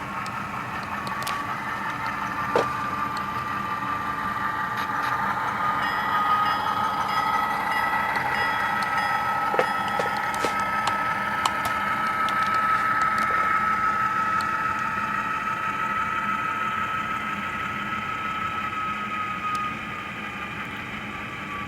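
Tsunami sound decoder in an HO-scale Athearn P42 Genesis model locomotive playing diesel engine sound through its small speaker: a steady whine that slowly climbs in pitch and loudness, then eases back down near the end, with a few light clicks.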